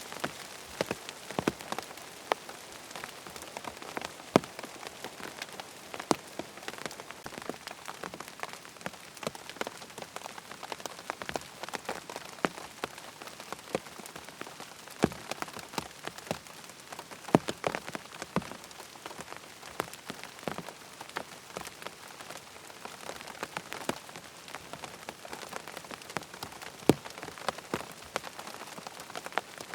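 Rain pattering on a tent's fabric: a steady hiss of rainfall with many sharp, irregular drop impacts, some much louder than the rest.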